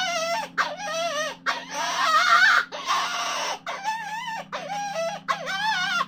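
An animal calling over and over, about seven calls each under a second long, the pitch of each wavering up and down, over a steady low hum.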